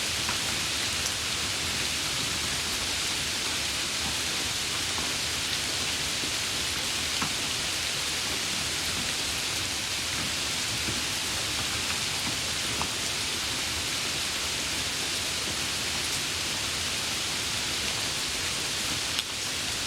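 Steady, continuous rainfall, an even hiss with faint scattered drop ticks and a brief dip near the end.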